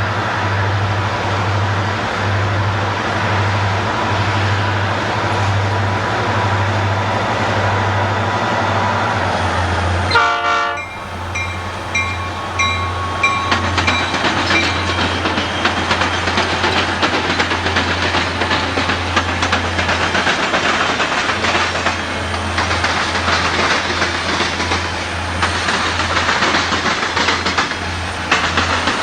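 Diesel-hauled freight train passing: a steady rumble with a low engine hum, then a horn sounding in short blasts about a third of the way in, followed by wheels clicking over rail joints as the cars roll by.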